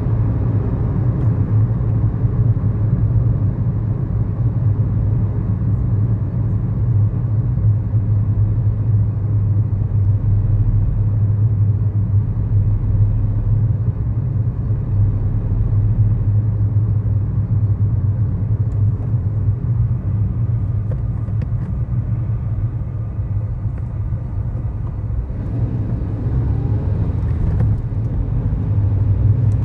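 Steady low rumble of engine and road noise inside the cabin of a 2011 Kia Morning with a 999 cc four-cylinder engine, on the move. The noise grows a little brighter about 25 seconds in.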